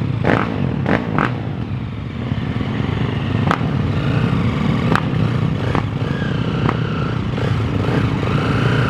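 Motocross dirt bike engines running on the track, a steady mixed drone with a few sharp knocks in the first half. A higher engine note comes in and rises near the end.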